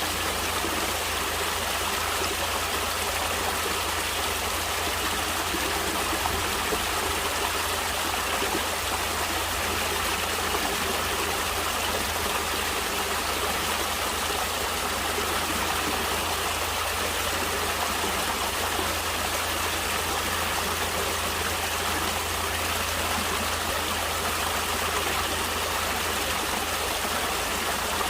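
Natural running water flowing steadily, an even rush without breaks or changes.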